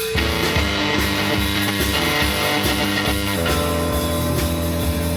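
Instrumental intro on guitar with a steady bass line, chords changing about every second.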